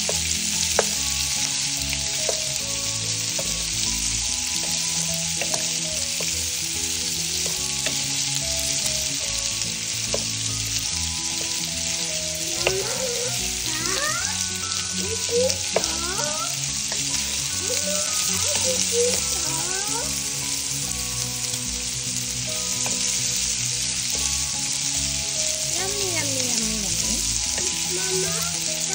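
Sliced sausages sizzling steadily in a hot nonstick frying pan while they are stirred with a wooden spatula.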